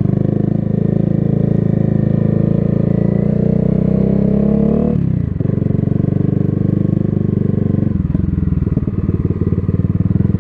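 Honda CB Twister's single-cylinder motorcycle engine pulling under way: its pitch climbs for about five seconds, drops sharply at a gear change, then pulls again with another shift a few seconds later.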